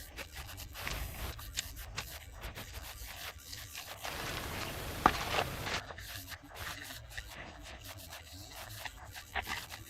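Trowel scraping and rubbing straw-based render onto a wall, in irregular strokes with scattered clicks and a sharp knock about five seconds in.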